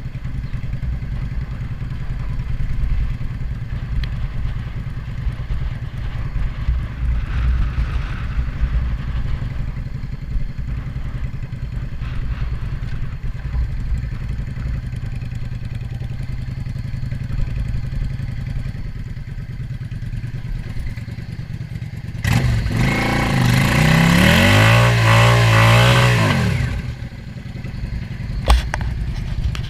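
Engine idling steadily with its vacuum leak repaired. About 22 seconds in it is revved for four or five seconds, the pitch climbing and falling back, then it settles to idle again.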